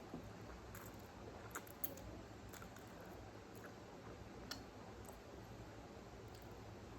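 Quiet noodle eating: a handful of faint, irregular clicks and taps over a low steady hum.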